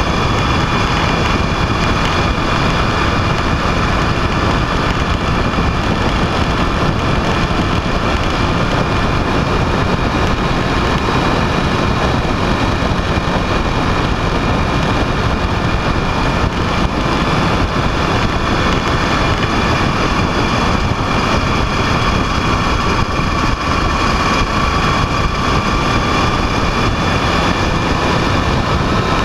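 Vehicle engine running at a steady speed under a constant rush of wind and road noise, with a steady whine whose pitch creeps up slightly near the end.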